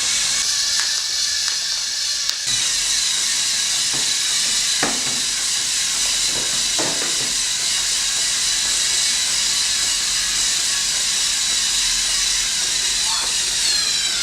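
Homemade robotic vacuum cleaner running, its high-speed suction motor giving a steady loud hiss, with a couple of light knocks about five and seven seconds in.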